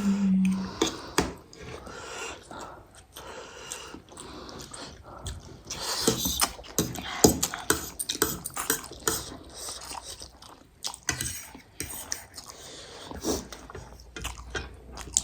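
Close-up eating sounds: chewing and slurping noodles, with many short clicks of utensils against plates and bowls. A brief hummed vocal note at the very start.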